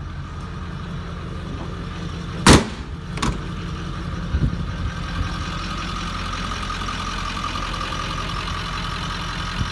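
2003 Ford F-250's 7.3-litre Power Stroke V8 turbo diesel idling steadily. Two loud sharp bangs, a little under a second apart, come about a third of the way in; the first is louder.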